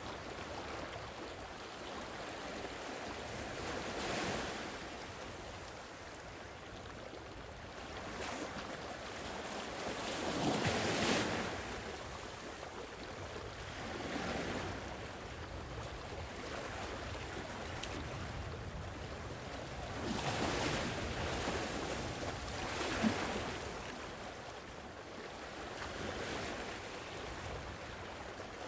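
Sea waves washing onto a shore, the surf swelling and receding every few seconds, the loudest wash about eleven seconds in, with a light wind.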